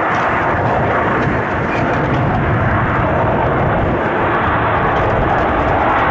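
Jet airliner departing, its engines at takeoff power, loud and steady.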